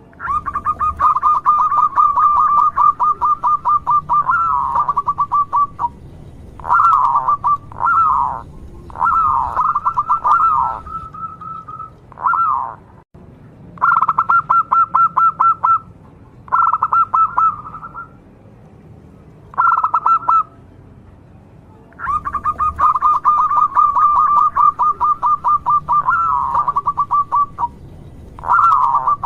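Zebra dove (perkutut) singing: runs of rapid, staccato cooing notes, some long and some short, broken by pauses, with the longest pause a little past the middle.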